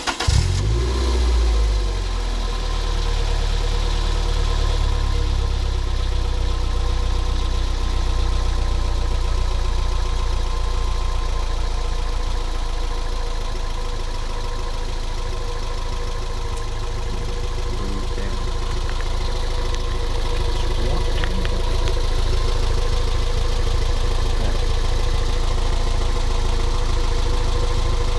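Toyota MR2 Spyder's 1.8-litre four-cylinder engine idling through a stainless-steel grille-exit dual exhaust with a MagnaFlow dual-outlet muffler, just after starting, with a brief flare in revs at the very start before settling to a steady idle.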